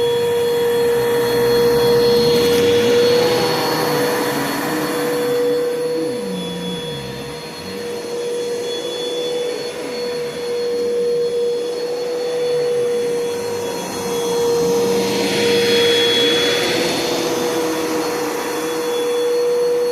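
Bissell PowerForce Bagless 6583 upright vacuum cleaner running with a steady motor whine, its rush of air swelling twice, a few seconds in and again near the three-quarter mark.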